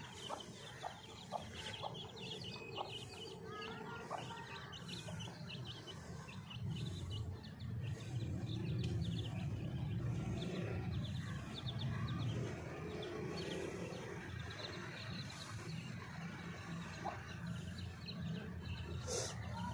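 Aseel hen clucking with her chicks cheeping, many short high peeps throughout. A low rumble underneath grows louder in the middle.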